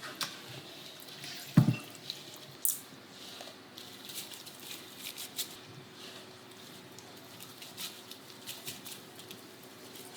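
Wet kitchen handling sounds of food preparation: squelches and small clicks and taps, with one heavier thump about a second and a half in.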